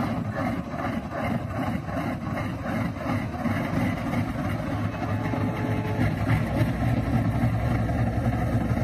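WDG4G diesel locomotive's GE GEVO-12 engine running just after starting. It pulses at about two to three beats a second, then settles into a steadier sound as a low drone builds toward the end.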